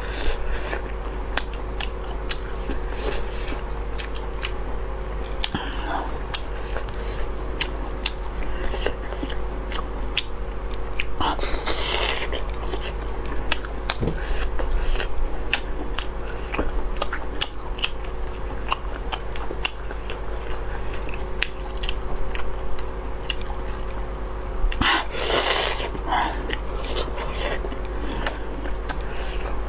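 Close-miked biting and chewing of a ring sausage, with many small sharp clicks and wet mouth sounds, and two louder bursts about twelve and twenty-five seconds in. A steady low hum runs underneath.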